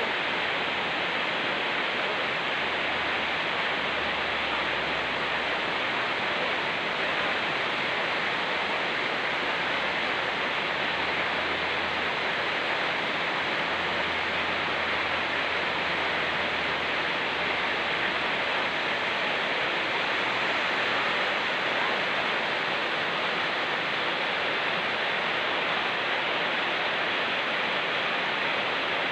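Rain falling together with a fast-flowing mountain stream: a steady, unbroken rushing hiss.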